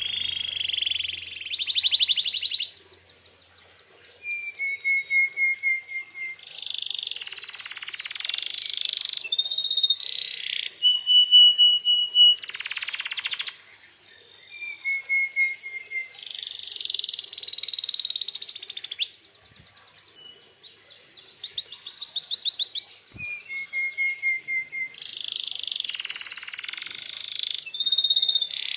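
Canary singing: fast rolling trills, buzzy phrases and runs of short whistled notes, broken by brief pauses. The same sequence of phrases comes round about every ten seconds.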